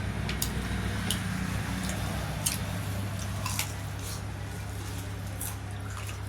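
Eating sounds during a dhido and spicy chicken meal: wet chewing and handling of food, with scattered short clicks over a steady low hum.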